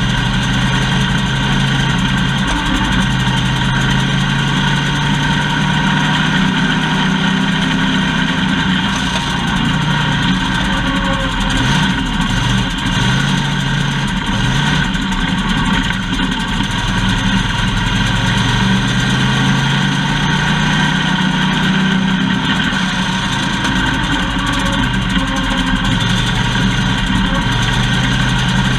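Factory stock race car engine running, heard from inside the car, its pitch holding steady, then dropping and climbing again in quick swings about halfway through, over a constant rush of noise.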